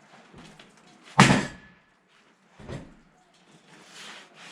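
Two heavy knocks: a loud one about a second in with a brief ring after it, and a lighter one about a second and a half later.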